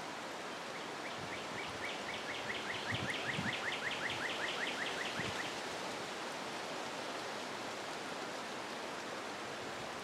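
A songbird trilling a rapid run of short, repeated high notes from about one second in until about five and a half seconds, over a steady outdoor hiss.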